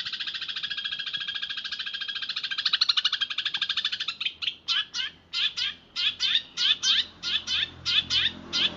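Eurasian tree sparrow chirping in a fast, tightly packed rolling trill for about four seconds. It then breaks into separate short bursts of chirps, about two a second.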